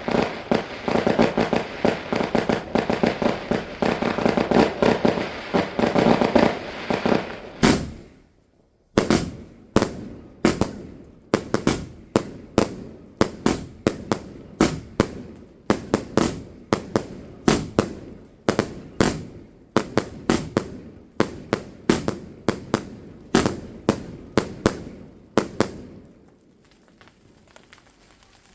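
Fireworks going off: a dense, rapid crackling string of bangs for about eight seconds, then after a short pause a run of separate sharp bangs about two a second, which stops near the end.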